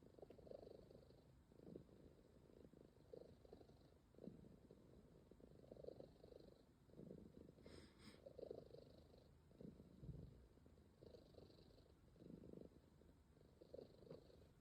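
Calico cat purring softly and continuously, the purr swelling and fading with each breath about once every second and a bit. A brief high sound about eight seconds in.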